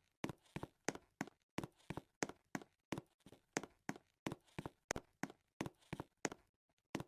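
Quick, even footsteps, each a sharp click, about three a second.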